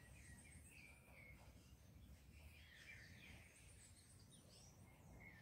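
Near silence: faint room tone with scattered faint high bird chirps and short trills.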